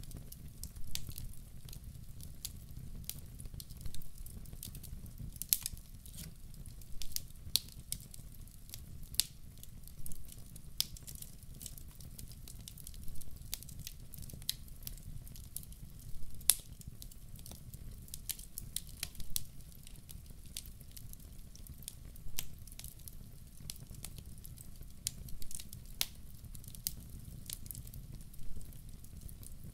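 Wood campfire crackling: irregular sharp pops and snaps, a few a second, some louder than others, over a low steady rumble.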